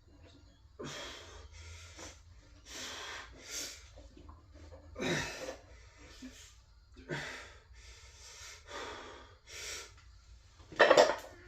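A man breathing hard during weightlifting reps: sharp noisy breaths in and out about once a second, with a louder burst near the end.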